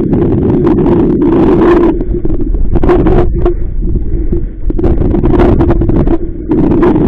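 Strong wind buffeting the microphone in gusts on a small inflatable boat on choppy water, over a steady low hum, with brief dips around three seconds in and again near the end.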